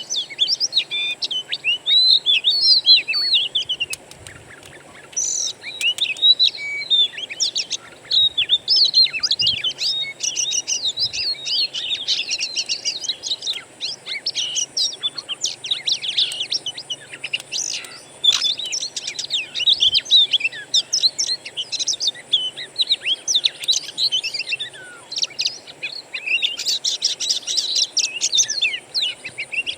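Songbird song from a lure recording for oriental magpie-robins: a dense, unbroken run of rapid chirps, trills and short whistles.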